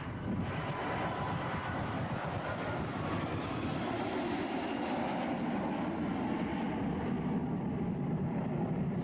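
Boeing 757 twin turbofan jet engines at high power as the airliner climbs away from a low overshoot, a steady roar with a faint high fan whine over the first few seconds.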